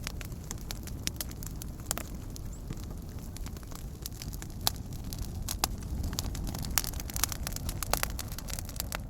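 Fire crackling and popping: many sharp, irregular pops over a steady low rumble of the flames.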